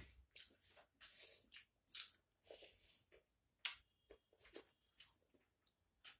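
Close-miked mouth sounds of people eating by hand: chewing and lip smacks coming as an irregular run of short, sharp clicks.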